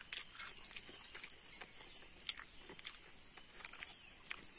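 A person chewing a mouthful of fish and manioc flour: faint, irregular crunching and small mouth clicks.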